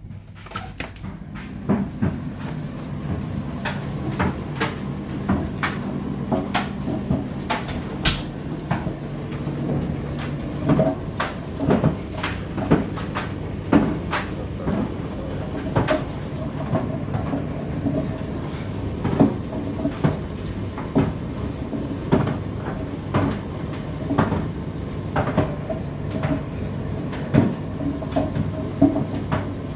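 Indesit IDC8T3 condenser tumble dryer starting up and running: a steady motor and drum hum builds over the first couple of seconds, with repeated knocks from the load tumbling in the drum, often about one a second.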